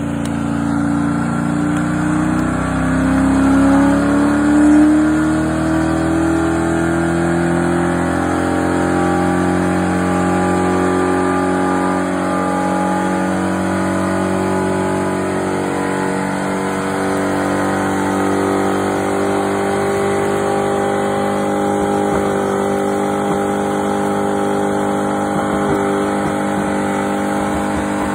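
Ford Mustang GT's 4.6-litre V8 held at high revs in a burnout, its pitch climbing over the first few seconds and then holding steady, the rear tyres spinning under it.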